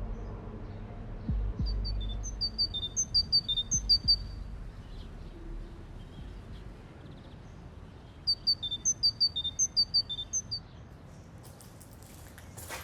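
A songbird singing two quick phrases of short, high chirps, each about two seconds long and several seconds apart, over a low hum that fades out in the first half.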